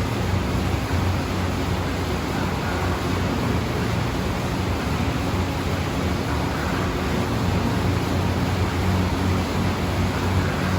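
An engine running steadily: a constant low hum under an even rushing noise.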